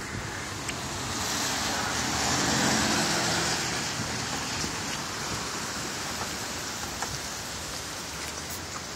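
Hurricane storm noise: a steady hiss of wind-driven rain and weather, swelling louder for a couple of seconds about a second in before settling back to an even hiss.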